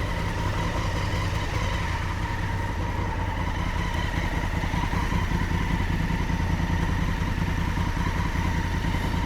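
Honda Africa Twin adventure motorcycle engine running steadily, without revving up or down.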